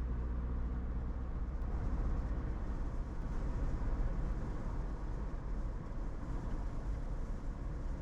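Car in motion, heard from inside the cabin: a steady low engine and road rumble.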